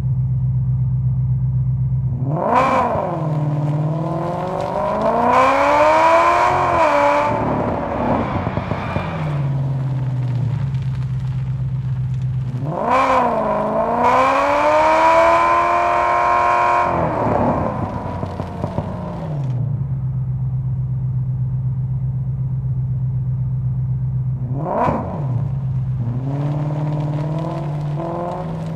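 Muscle car engine idling and being revved: two long revs, each snapping up, dipping, then climbing again before falling back to idle, and a short quick blip of the throttle near the end.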